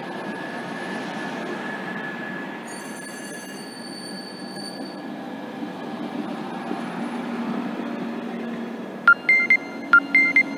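SNCB M6 double-deck passenger coaches rolling along the platform with a steady rumble, and a high squeal from the wheels for a couple of seconds early on. Near the end come two quick pairs of short two-note tones, the loudest sounds here.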